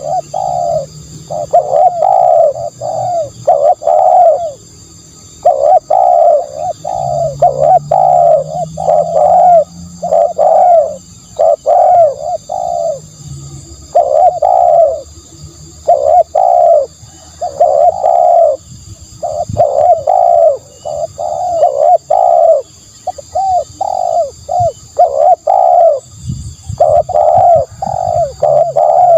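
Spotted dove cooing over and over in short phrases of two to four coos with brief gaps between them. A faint steady high whine runs underneath.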